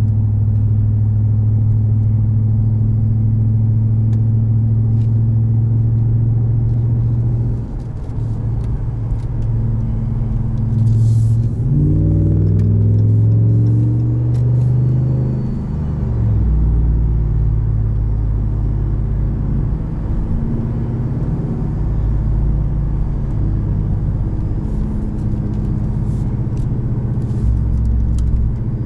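5.7-litre V8 of a Ram 1500 Rebel running through a Carven aftermarket exhaust while driving, a steady low drone. About twelve seconds in the engine speed climbs, then drops back by about sixteen seconds, as under a burst of throttle.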